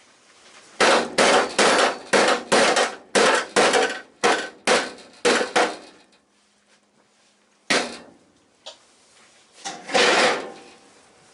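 Hammer blows on a car's steel body panel: about a dozen quick, sharp strikes in a row, then a pause, one more strike, and a longer final one near the end.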